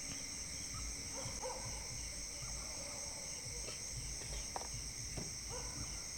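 Steady chorus of crickets, a continuous high trill, with a few faint short calls lower down.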